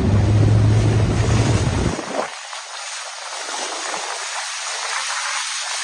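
Rushing water and wind noise from a moving boat: a heavy low rumble that cuts off abruptly about two seconds in, leaving a steady hiss of water and wind.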